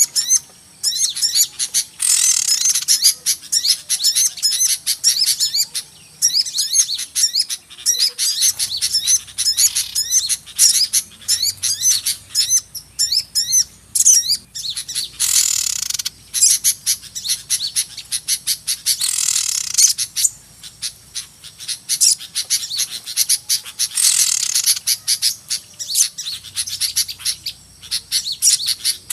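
A noisy chorus of small songbirds chirping and twittering in quick, dense runs, with louder harsh, churring calls breaking in about 2, 15, 19 and 24 seconds in. It is a lure call meant to draw small birds in.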